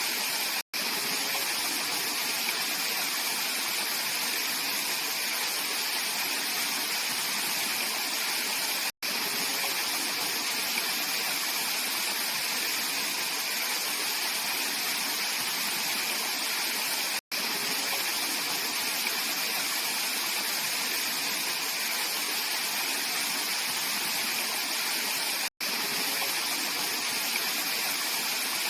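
Clear mountain valley stream rushing steadily over rocks, an even, unbroken water noise. It cuts out for an instant about every eight seconds.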